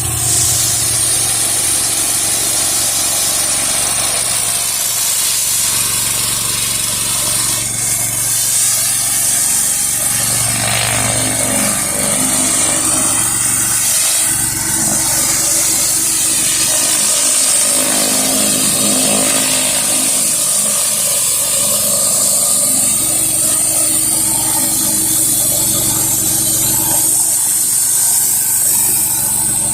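A 4-gallon-per-minute pressure washer's engine running steadily under load while a 16-inch Whisper Wash surface cleaner sprays high-pressure water onto a concrete driveway, a strong, even hiss over the engine's hum.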